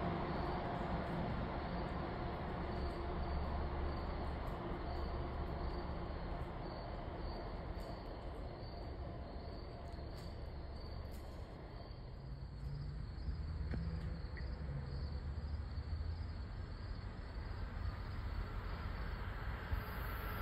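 Low rumble of trains in a rail station. It dies down about halfway through and builds again, with a faint, evenly repeating high chirp over it.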